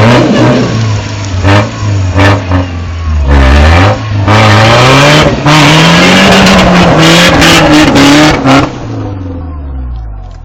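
Pickup truck engine revving hard and repeatedly, its pitch rising and falling with the throttle, as the tires spin in mud and water, with sharp cracks and spatter over it. Near the end the revving stops and the sound dies away.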